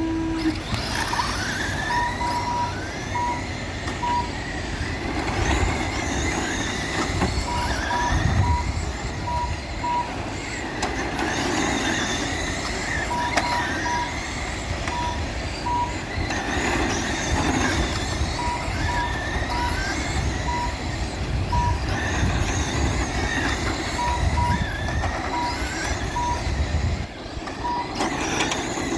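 Several electric RC short-course trucks racing on a track: their motors whine, rising and falling in pitch as the throttle is worked. Short beeps in quick clusters repeat through the race, and a brief tone sounds right at the start.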